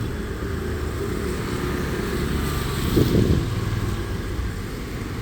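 Street traffic: motor vehicles running past with a steady low rumble, one passing louder about three seconds in.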